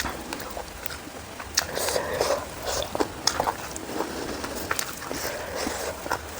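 Close-up eating sounds: chewing with wet mouth clicks and lip smacks coming irregularly, several times a second at times.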